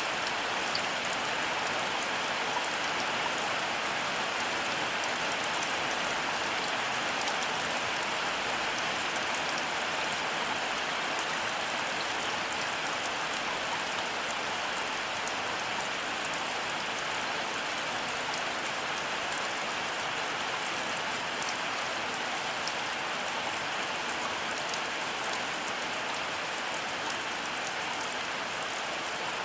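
Heavy rain falling steadily, an even hiss of water with many fine individual drop hits and no break or change.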